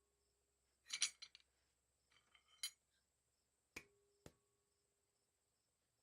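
Light steel-on-steel knocks and clinks. Two clusters of rattling clinks, about a second in and again around two and a half seconds, are followed by two sharp hits near the four-second mark, each ringing briefly on a clear tone.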